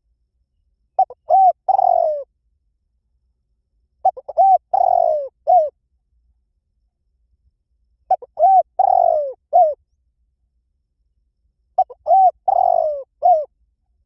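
Spotted dove cooing: four calls about every four seconds, each a couple of short coos, a longer falling coo and a last short coo.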